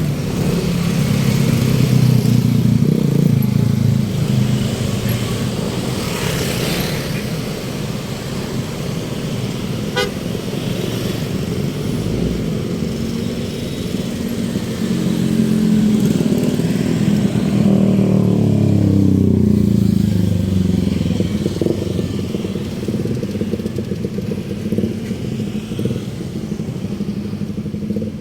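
Motor vehicle engines running and passing close by, with an engine note that rises and falls in the second half.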